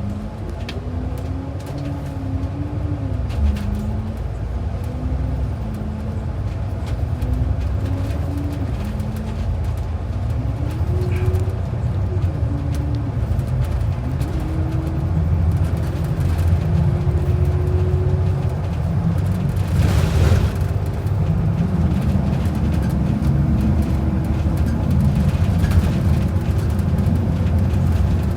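Bus engine and drivetrain heard from inside the cabin while accelerating. The engine note rises and drops back several times as the automatic transmission shifts up, then climbs slowly and steadily. Underneath is a constant low road rumble that grows louder as speed builds, with a brief burst of rattle about twenty seconds in.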